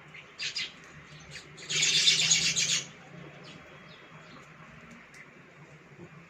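Baya weavers chirping: a few short high chirps, then about a second and a half in, a loud burst of rapid chattering lasting about a second.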